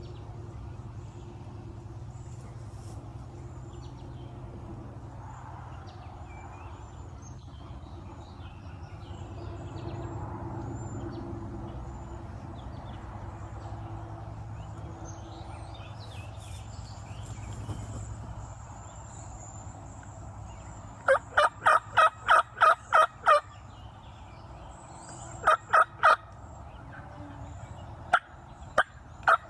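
Turkey yelps: a run of about ten loud, evenly spaced yelping notes about two-thirds of the way in, then shorter runs of yelps near the end. Before them, faint songbird chirps over a low steady rumble.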